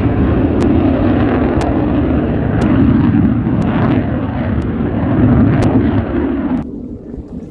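Airshow aircraft flying low overhead, a loud steady engine roar that cuts off abruptly near the end.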